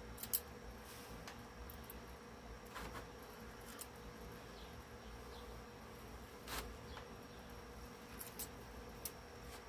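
Faint steady hum with a low rumble under it, and a few light clicks scattered through it.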